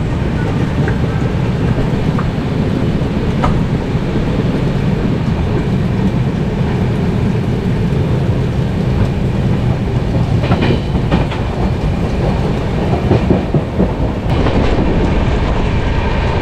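Ganga Kaveri Express passenger coach running at speed, its wheels clattering steadily over the rails, heard from an open coach doorway with wind rush and heavy rain. A few sharper clicks come about ten seconds in.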